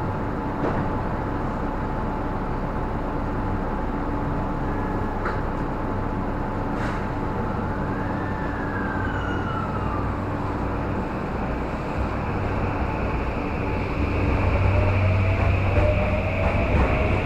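Tobu Skytree Line electric train running, heard from inside the car: a steady rumble with a low hum. It grows louder over the last few seconds as a rising whine comes in.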